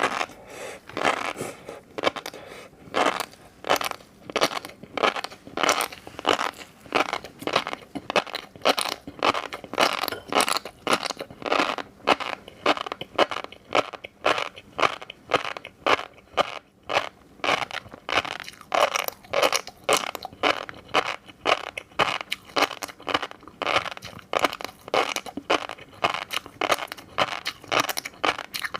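Close-miked chewing of fish roe, the beads crunching and popping in a steady rhythm of about two bites a second.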